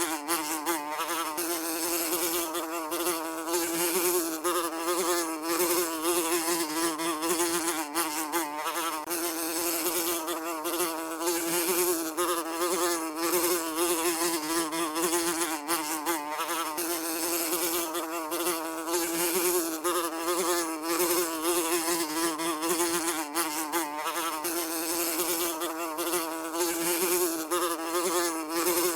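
A housefly buzzing continuously, its wingbeat hum steady in pitch with a slight waver.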